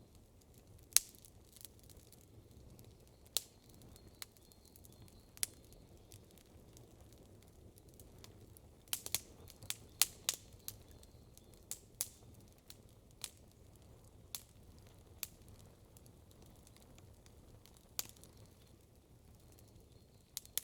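Wood campfire crackling: sharp pops come at irregular intervals, with a quick run of them about nine to ten and a half seconds in, over a faint low hush.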